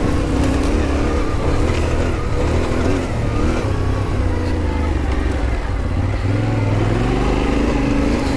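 Yamaha Ténéré 700 parallel-twin engine running under way on a dirt trail, its revs rising and falling as the rider works the throttle.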